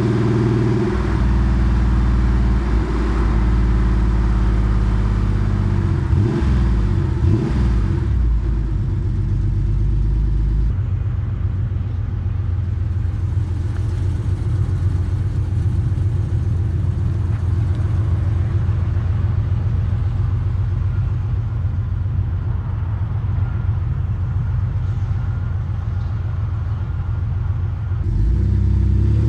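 Porsche 964 Carrera 2's air-cooled 3.6-litre flat-six with a centre straight-through exhaust, running under way with the revs rising and falling through the first several seconds. About ten seconds in it changes abruptly to a steady low rumble with rapid, even pulses. It picks up again near the end.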